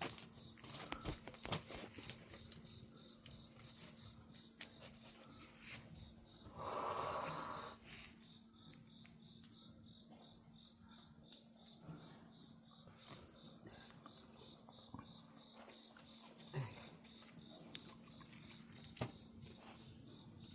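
Insects trilling steadily in a high, even chirr over a low steady hum, with scattered faint ticks. About seven seconds in, a louder sound rises for about a second and stops.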